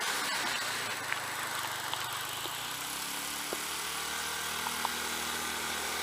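Snow blower engine running steadily, with a few faint ticks over it.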